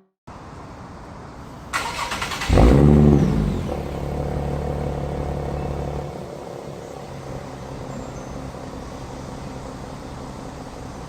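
2016 Nissan 370Z's 3.7-litre V6 through an Armytrix Valvetronic exhaust starting up: a short crank about two seconds in, a loud flare of revs, then settling to a steady idle that drops slightly a few seconds later.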